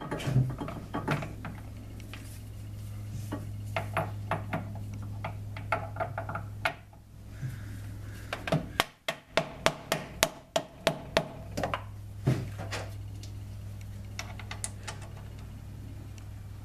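Metal parts and hand tools clinking and knocking irregularly while the lathe chuck jaws and their bolts are handled, with a quick run of sharp knocks about nine to eleven seconds in, over a steady low hum.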